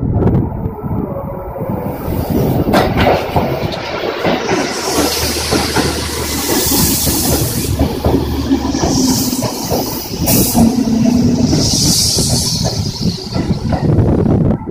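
Seibu 101 series electric train pulling into the station and running past close by: wheels clattering over rail joints, with a low steady hum in the middle stretch and patches of high hiss.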